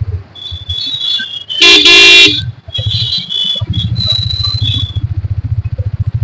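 A vehicle horn blares loudly for about half a second, starting about a second and a half in. From about halfway on, a motorcycle engine runs with a low, even putter.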